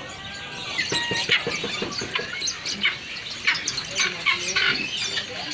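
Caged songbirds chirping: a dense run of short, high, sharp chirps and calls that starts about a second in, over a steady market background.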